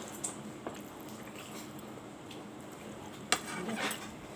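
Quiet room with a faint tick early on and a sharp clink of tableware about three seconds in, followed by light handling noise as food is eaten.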